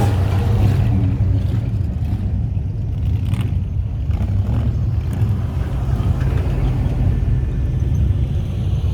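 A car's engine running at a steady pace, a continuous low rumble that holds level.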